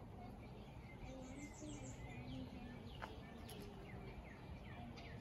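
Birds chirping: runs of short, quick, falling chirps, over steady low background noise.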